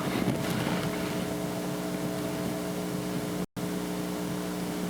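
Steady electrical hum with hiss from a live microphone and sound system, with a little handling noise at the start as the microphone is passed. The sound drops out completely for an instant about three and a half seconds in.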